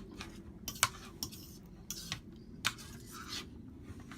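Cutlery clinking against plates and bowls while eating: a handful of sharp, separate clinks roughly a second apart.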